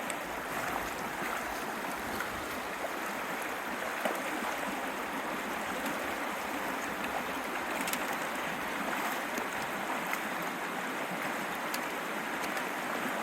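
Creek water rushing and splashing steadily.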